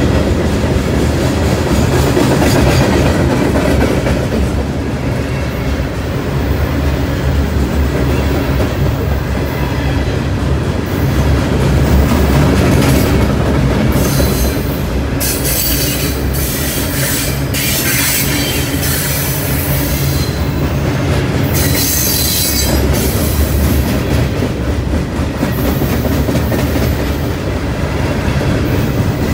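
Loaded Norfolk Southern coal train's cars rolling past: a steady loud rumble of steel wheels on rail, with high-pitched screeches coming and going about halfway through.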